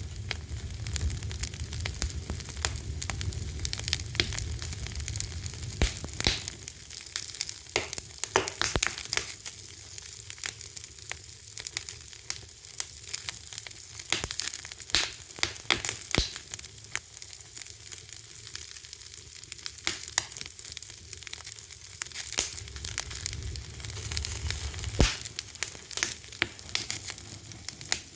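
Wood fire crackling: a steady hiss with many sharp, irregular pops and snaps, and a low rumble of flame that swells and fades.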